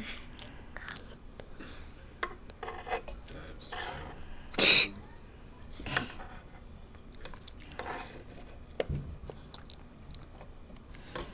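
Mouth sounds of eating sausage, rice and cucumber: chewing and crunching with small wet clicks. A single louder, sharper burst comes about halfway through.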